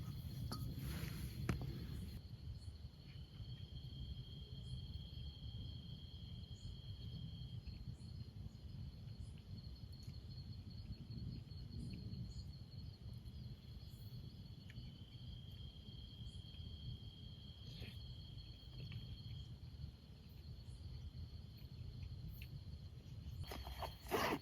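Forest insects trilling: one keeps up a steady high-pitched drone, and a second, slightly lower trill comes in twice for several seconds each, over a low rumble.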